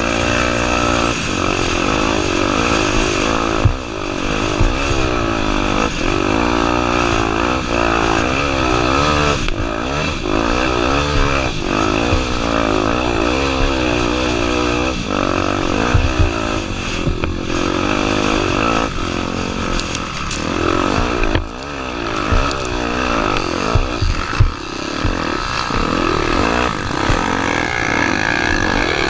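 Honda Tornado 250's single-cylinder four-stroke engine riding off-road, its pitch rising and falling over and over as the throttle is opened and closed, with a few sharp knocks along the way.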